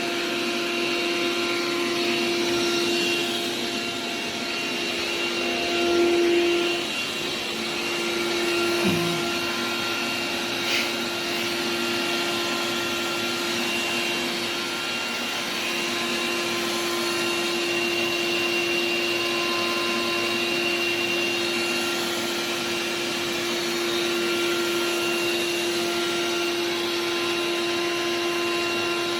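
Xiaomi X20 Pro robot vacuum running, its suction fan giving a steady whine over a rush of air, briefly louder about six seconds in, with a small click near the middle.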